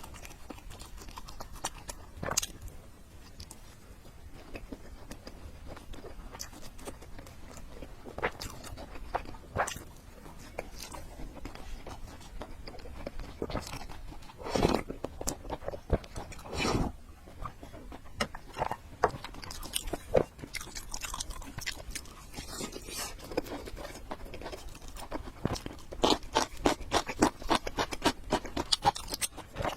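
A person eating noodles and fried egg close to the microphone: chewing and biting with wet smacking clicks. There are two louder, longer mouthfuls about halfway through, and a quick run of chewing sounds near the end.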